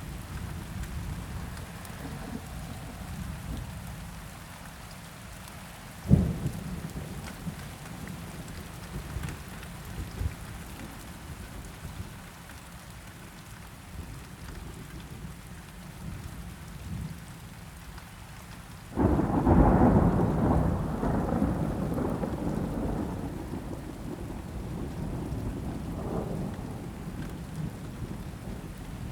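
Steady rain with thunder: a sudden short crack about six seconds in, then a loud rolling rumble starting about two-thirds of the way through that fades away slowly.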